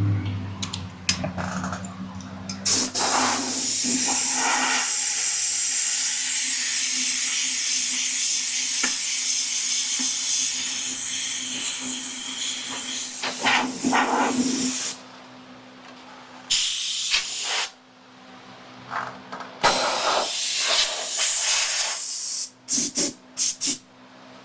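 Pressurised hissing spray in bursts: one long spray of about twelve seconds, then a few shorter sprays and a quick run of short ones near the end, over a faint steady hum.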